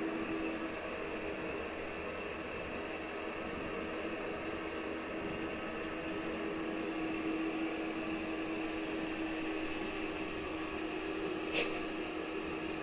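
Steady room hum and hiss, like an indoor appliance running, with one short click near the end.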